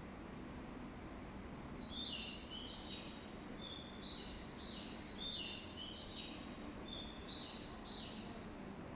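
Birds chirping: a run of short, overlapping high chirps that fall in pitch, starting about two seconds in and stopping shortly before the end, over a steady low hum of station ambience.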